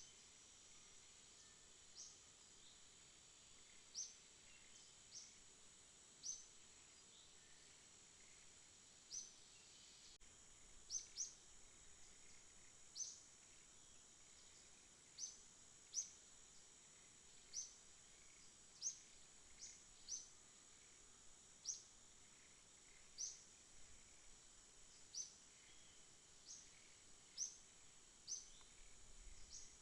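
Faint night ambience: a steady high-pitched insect drone with short, sharp high chirps every second or two.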